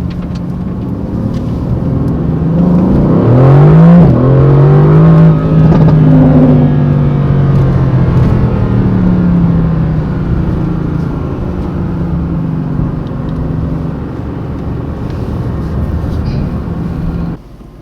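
Mercedes-AMG GT C Roadster's 4.0-litre twin-turbo V8 driving in Sport Plus mode. About three seconds in, the revs climb hard twice in quick succession with a gear change, and this is the loudest part. It then settles into a steady cruise, easing gradually before the sound drops off suddenly near the end.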